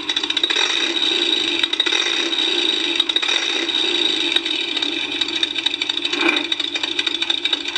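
Toy truck's built-in electronic engine sound effect, a vintage motor running, played through its small speaker: steady and rattly, thin with no bass.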